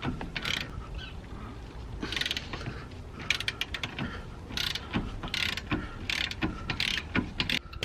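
Hand ratchet clicking in a series of short bursts, about one a second, as nuts are wound off a car's front wheel hub and brake caliper.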